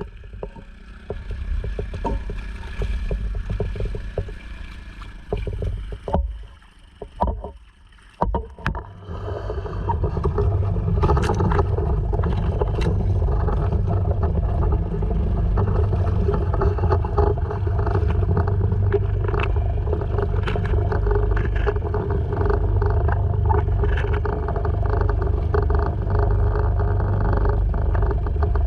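Honda 2.3 hp single-cylinder four-stroke outboard running at a steady speed from about ten seconds in. Before that there is a quieter, uneven stretch with scattered knocks.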